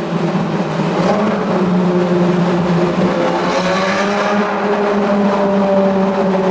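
Car engine running at steady, moderate revs: a loud, even drone that holds one pitch throughout, with a slight wavering in the middle.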